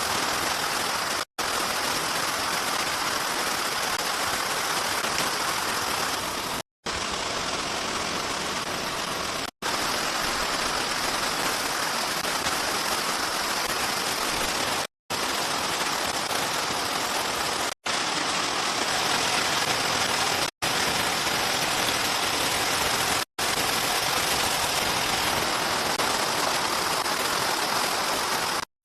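Heavy rain falling steadily as an even hiss, broken by several split-second gaps of silence where the clips are cut together.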